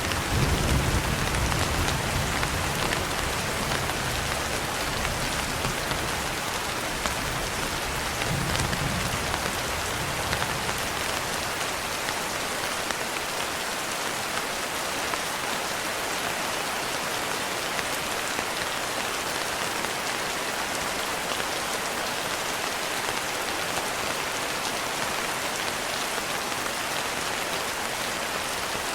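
Steady rain on a window, an even hiss of drops, with a low rumble of thunder dying away during the first ten seconds or so.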